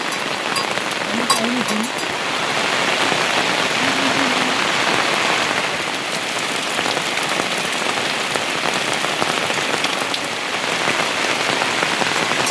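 Heavy monsoon rain falling steadily, a dense even hiss of rain on surfaces.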